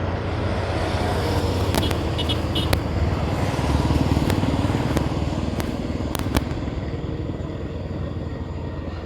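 Bajaj Pulsar 200 NS single-cylinder engine running steadily while the motorcycle rides along the highway, with road and wind noise. A few sharp clicks are heard, and the engine eases off slightly in the last few seconds.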